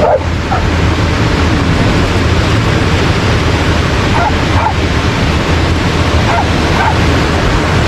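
Dogs barking and yipping in short calls, a few near the start and then in pairs in the middle, over a steady rush of ocean surf.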